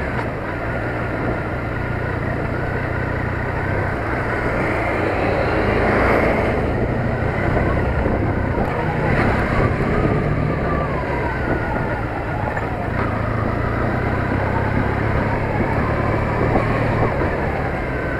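Triumph Bonneville T100's parallel-twin engine running at low speed, with road and wind noise on the microphone.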